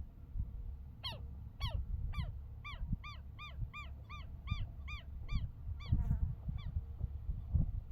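A bird calling in a rapid series of about fourteen short, nasal, honk-like notes, two to three a second. The calls begin about a second in and end a little before the close, over a low rumble.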